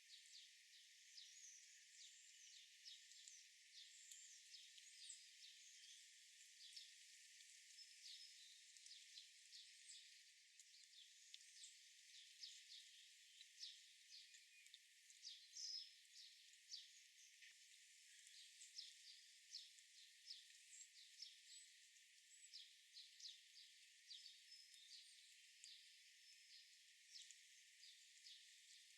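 Faint chorus of small birds chirping: many short, high calls overlapping irregularly, with no low sound at all.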